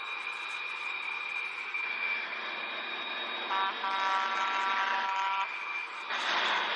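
Engine and road noise of a high-speed highway chase, with a horn blaring for about two seconds midway. The noise gets louder near the end.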